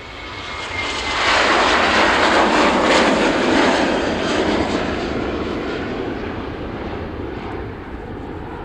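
Fixed-wing aircraft passing close: its engine noise swells sharply about a second in, holds loud for a few seconds, then slowly fades away.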